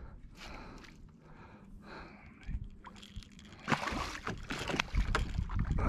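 Water sloshing and splashing as a hooked catfish is brought alongside a kayak and lifted aboard, turning to loud splashes and thumps about four seconds in.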